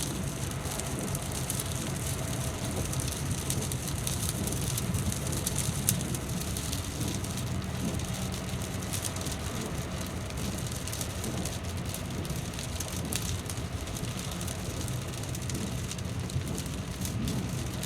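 Steady rainfall, with many individual drops ticking over a continuous hiss and a low rumble underneath.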